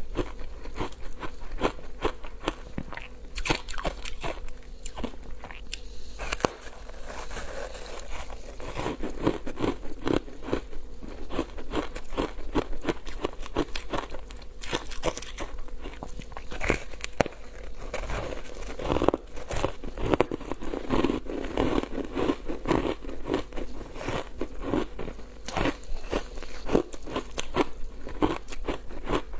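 Close-miked crunching and chewing of foam ice dusted with matcha powder: a dense, irregular run of sharp crackles and crunches as the brittle ice breaks between the teeth.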